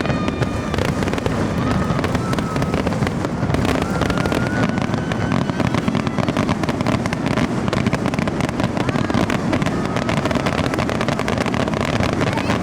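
Fireworks display going off in a dense, continuous barrage of crackles and bangs, with a few brief whistles above it.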